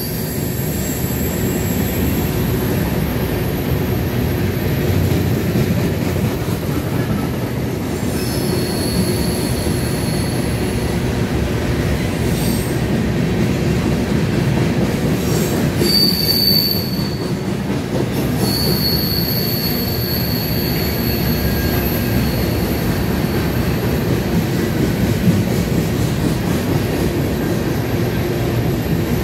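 BNSF freight train of covered hopper cars rolling past: a steady rumble and rattle of wheels on rail, with thin high-pitched wheel squeals that come and go, strongest in the second half.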